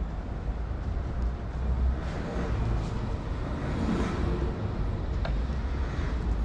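Old tram running: a steady low rumble of motor and wheels on the rails, with a rushing noise that swells and fades in the middle and a single click near the end.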